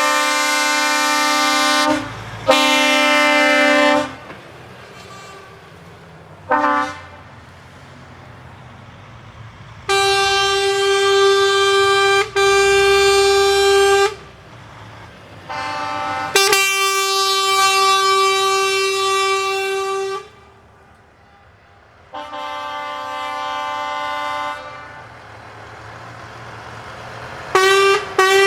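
Truck air horns blowing a series of long, steady blasts of two to four seconds, at two or three different pitches, with a few short toots between and pauses where a faint engine rumble remains.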